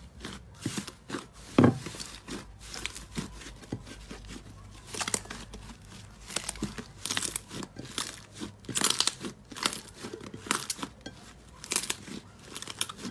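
Slime being squeezed and stretched by hand, giving a dense, irregular run of crackling pops from trapped air, with one louder pop about one and a half seconds in.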